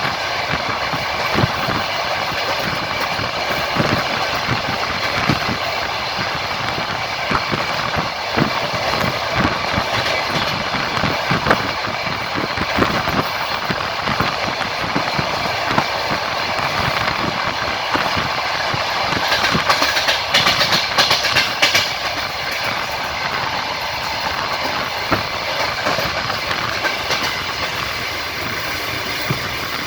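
Passenger train wheels rolling and clattering over the rail joints, heard from the carriage: a steady rumble with irregular knocks. Around two-thirds of the way through, a brief louder, brighter rattle rises over it.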